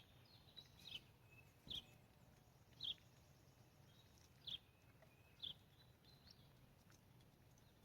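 Small bird giving short, high chirps, about six of them roughly a second apart, over faint background noise.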